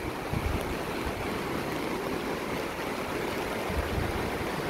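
River in spate rushing, a steady noise of fast-flowing water, with two brief low thumps about half a second in and near the end.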